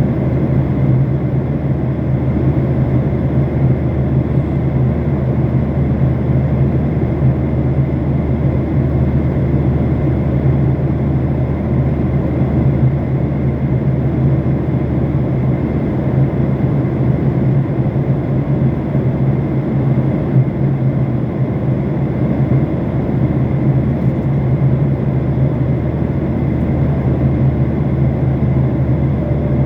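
Steady drone inside an airliner cabin in flight: engine and airflow noise, strongest in a deep low hum and unchanging throughout.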